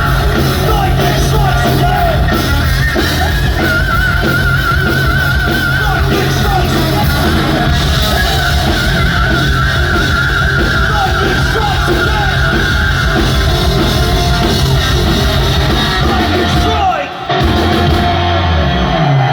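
Live hard rock band playing loud, with distorted electric guitar, heavy bass and drums, and sung vocals over wavering sustained notes. The sound dips out briefly near the end.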